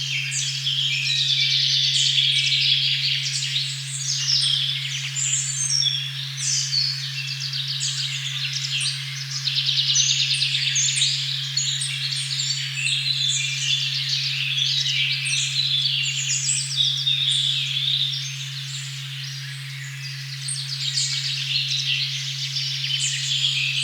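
A steady low 136.1 Hz sine tone hums under a dense chorus of many songbirds singing and chirping over one another in a forest.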